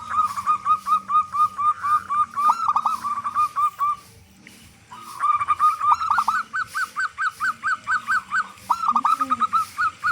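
Local zebra dove (perkutut) calling: a fast run of short, even notes, about six a second, that breaks off for about a second in the middle and then starts again.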